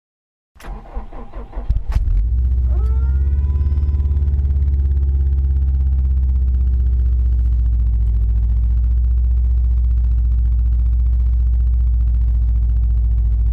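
2012 Subaru STi's turbocharged 2.5-litre flat-four on E85 cold-started at about 2 °F: the starter cranks briefly about half a second in, the engine catches on the first try about two seconds in with a rising whine, then settles into a loud steady idle that does not wander.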